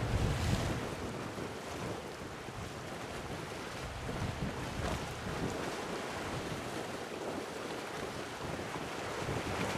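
Sea waves washing with wind buffeting the microphone, a low gusty rumble that is strongest at the start and again near the end.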